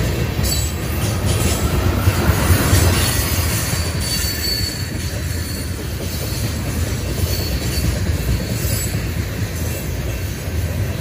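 Freight train tank cars rolling past on a curve: steady wheel-on-rail rumble with clicks, and a thin high wheel squeal about four seconds in.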